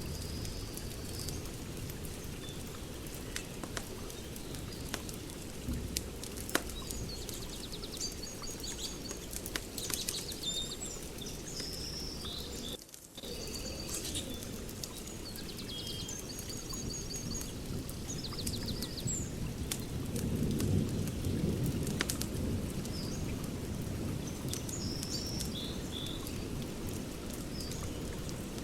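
Wood fire crackling and popping, with birds chirping and trilling in the background. The sound drops out for a split second about halfway through.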